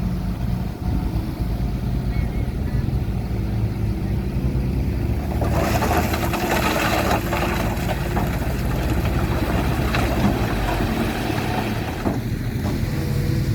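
Heavy earthmoving machine's diesel engine running steadily under load. From about five seconds in, a loud rushing, rattling noise lasting roughly seven seconds joins it.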